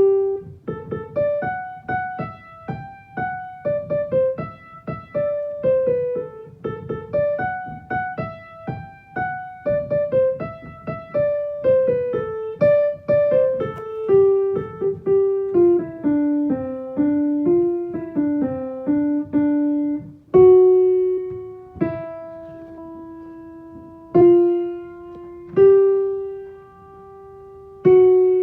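Piano playing a single-note melody line, the soprano part of a choral piece. The notes are struck one at a time at a moderate walking pace, falling gradually lower through the middle. They slow to a few long held notes near the end.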